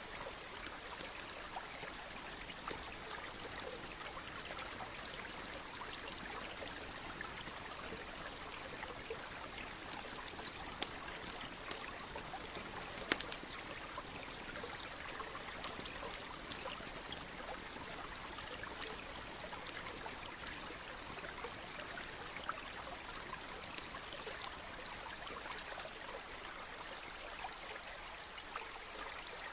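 Campfire crackling, with irregular sharp pops and snaps, one louder snap about halfway through, over the steady trickle of a small stream.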